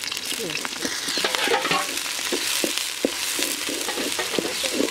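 Sliced onions and green chilies sizzling in hot oil in a large aluminium pot. They are stirred with a wooden spatula that scrapes and knocks against the metal again and again.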